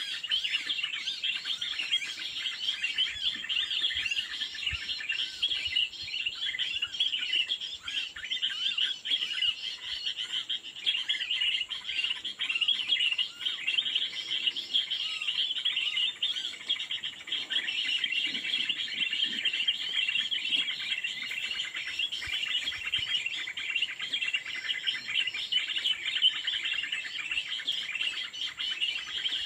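Dense, continuous chirping and twittering of small birds, many short calls overlapping without a break.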